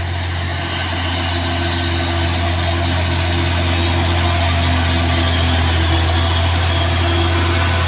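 Heavily loaded 6x2 diesel truck engine labouring up a steep grade, a steady low drone that slowly grows louder.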